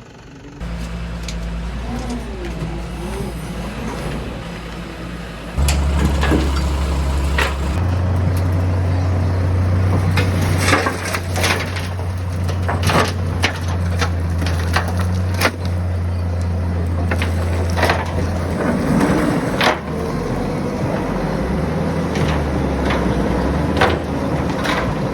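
JCB 3DX backhoe loader's diesel engine running under load, stepping up in level about half a second in and again around six seconds. From then on it is joined by repeated sharp cracks and knocks of rock and earth being broken and moved by the bucket.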